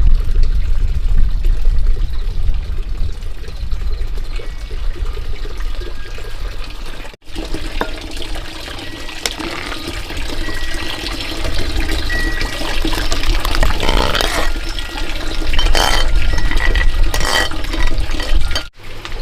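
Water rushing and splashing, with a heavy low rumble and a few sharper splashes in the second half; the sound breaks off abruptly twice.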